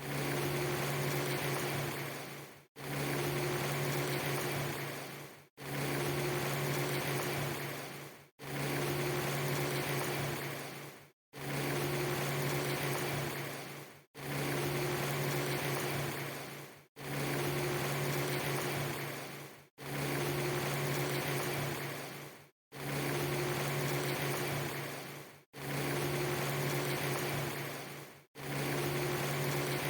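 Looped rain ambience: steady rain-like hiss over a low hum, a clip under three seconds long that fades, drops out briefly and restarts about every three seconds, around ten times in a row.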